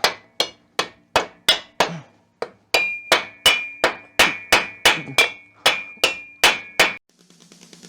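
Rapid, even hammer blows, about three a second, beating the corroded cylinder head off a seized air-cooled VW Beetle engine, each strike ringing briefly. There is a short pause about two seconds in, and the blows stop near the end.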